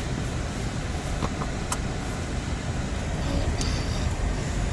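Car driving, with steady road and engine noise heard from inside the cabin and a few faint clicks about a second in.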